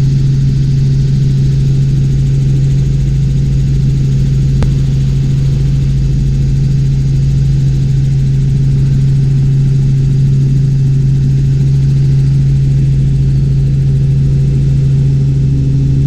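Robinson R44 Clipper II helicopter in cruise flight, heard inside the cabin: a loud, steady drone of rotors and the six-cylinder Lycoming piston engine, with a constant low hum over a rumble. A single click about four and a half seconds in.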